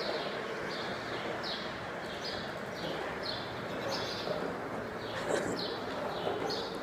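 A small bird chirping over and over, short high chirps about twice a second, over a steady outdoor background hiss.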